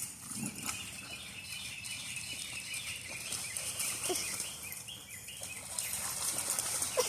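Small birds chirping, over a hiss of light splashing in water.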